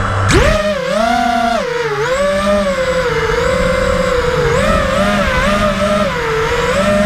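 Racing quadcopter's brushless motors (Emax Red Bottoms) spooling up sharply as the throttle is punched about a third of a second in, then whining and rising and falling in pitch with the throttle in flight.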